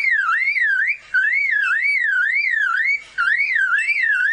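Superb lyrebird mimicking a car alarm: a whooping tone that swoops up and down about three times a second, broken by two short pauses.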